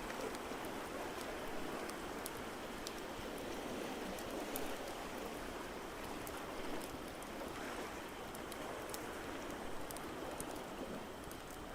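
A wood fire crackling, with scattered sharp pops, over a steady wash of ocean surf.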